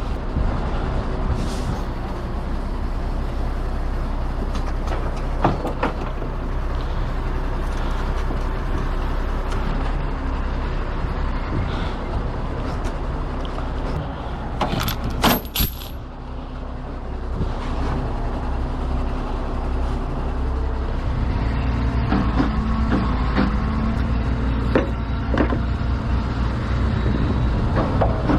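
Heavy truck's diesel engine running steadily, with scattered clicks and a short, sharp hiss about halfway through.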